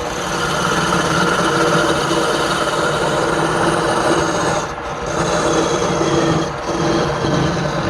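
Wood lathe running with a steady rasping sound as a turning tool works the spinning wood. The contact briefly eases twice in the second half.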